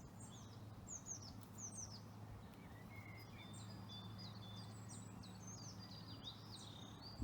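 A songbird singing faintly, a continuous rapid run of short, high chirps and trills, over a steady low hum.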